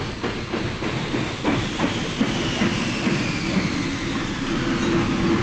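Sound-effect recording of a commuter train entering a station, played through the computer: wheels clacking over rail joints about four times a second, the clacks thinning out after about two seconds as the train slows, then a faint falling squeal.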